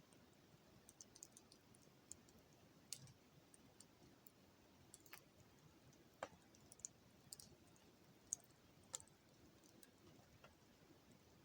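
Wood fire crackling faintly, with sharp pops and snaps at irregular intervals.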